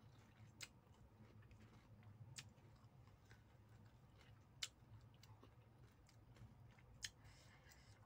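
Faint close-up chewing of a soft mouthful of rice and egg, with a few sharp wet mouth clicks, about four of them spaced a couple of seconds apart.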